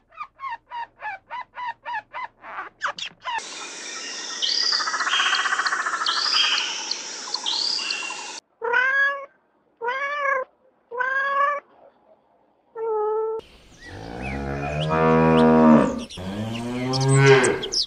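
A series of animal calls in turn: first a grey squirrel's rapid chirping, about five short chirps a second, then a few seconds of chirps over a steady hiss. Next a peacock gives four loud calls, the last one shorter. Near the end, two long, low cattle moos that rise and fall in pitch.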